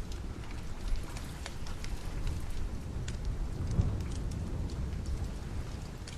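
Steady rain with a low rumble that swells briefly a little past the middle, and scattered sharp crackles and pops, as from a wood fire in a fireplace.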